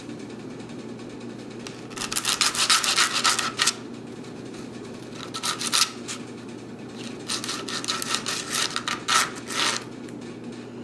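Sandpaper rubbing paint off a fingerboard truck hanger by hand: three spells of quick scratchy strokes, the first about two seconds in, a short one in the middle and a longer one near the end, over a steady low hum.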